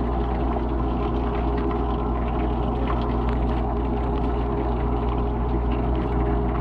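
KitchenAid dishwasher running its wash cycle, heard from inside the tub: the pump motor's steady hum under the hiss and spatter of water spraying.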